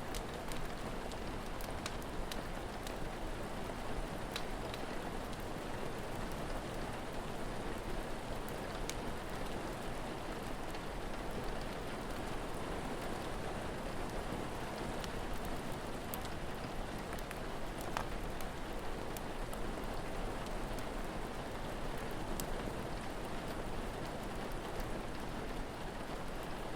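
Steady rain falling with an even hiss, dotted with occasional sharp crackles and pops from a wood fire.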